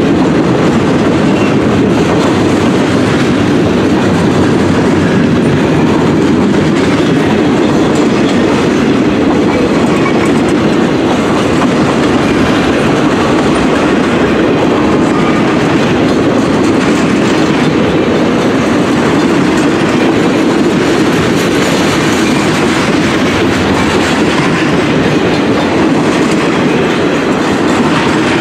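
Freight cars of a passing train rolling by close at hand: a loud, steady rumble of steel wheels on the rails, with wheels clicking over rail joints.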